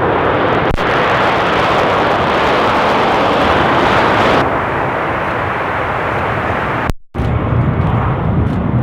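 Jet airliner engines close by, a loud steady rush. The high end falls away about four and a half seconds in, and the sound cuts out briefly near seven seconds.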